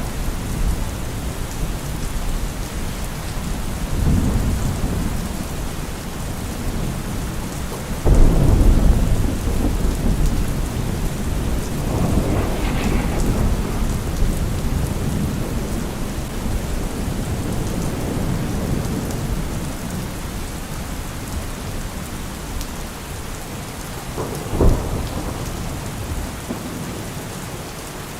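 Steady rain with rolling thunder: low rumbles swell and fade, with a loud clap about eight seconds in and a short sharp crack near the end.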